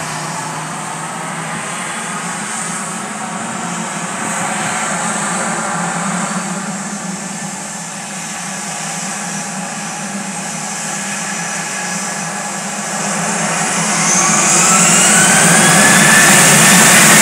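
Boeing 737-700's CFM56-7B turbofan engines running steadily, then spooling up with a rising whine and growing louder over the last few seconds as thrust is brought up for takeoff.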